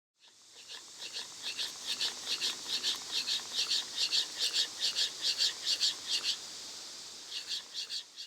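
A steel chisel blade scraped back and forth on a sharpening stone: rhythmic hissing strokes about three a second, stopping just over six seconds in and starting again about a second later.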